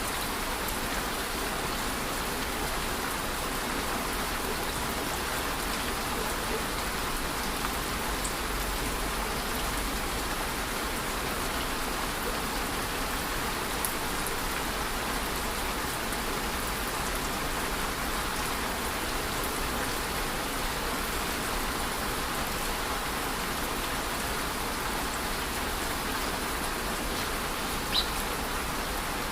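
Steady, even rain falling, with the occasional single louder drop tick, one standing out near the end.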